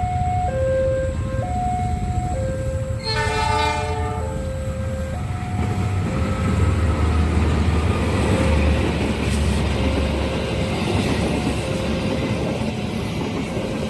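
Level-crossing warning alarm sounding two alternating tones, switching about once a second. About three seconds in, a train horn blows for a second and a half, and then the train rumbles through the crossing with the noise of its wheels on the rails.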